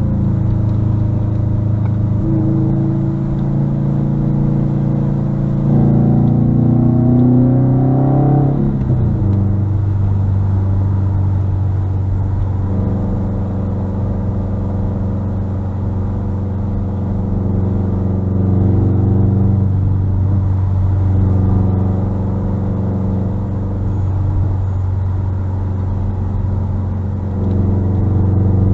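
Muffler-deleted 2021 Subaru WRX STI's turbocharged 2.5-litre flat-four running under way: the revs climb for several seconds, drop sharply about nine seconds in, then hold fairly steady at cruise with small rises and falls, picking up again near the end.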